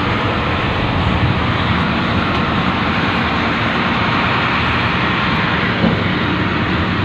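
Steady drone of an industrial train's locomotive engine and running gear, heard on board.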